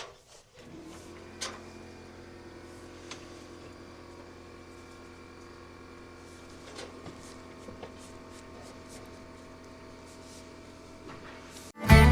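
Steady low machine hum with a few light taps and clicks scattered through it. Guitar music cuts in just before the end.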